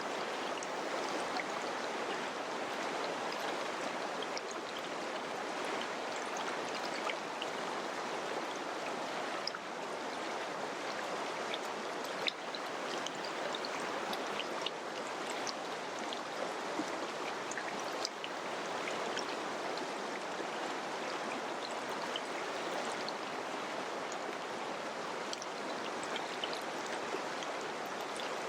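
Mountain river rushing steadily over rocks, a continuous wash of water with small splashes and droplet ticks scattered through it.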